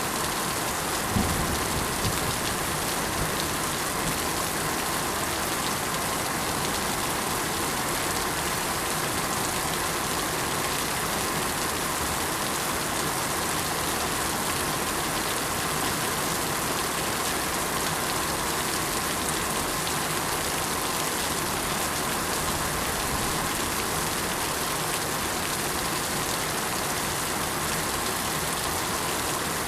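Steady rain falling, an even hiss of drops on surfaces, with one brief low thump about a second in.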